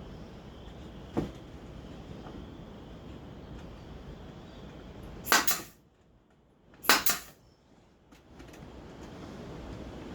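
Brad nailer firing: two sharp shots about a second and a half apart, after a lighter knock.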